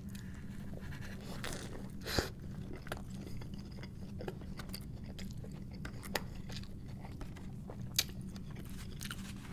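Close-miked chewing of a Burger King Whopper stacked with onion rings and fries: a big bite, then wet chewing with sharp crunches about two, six and eight seconds in, over a steady low hum.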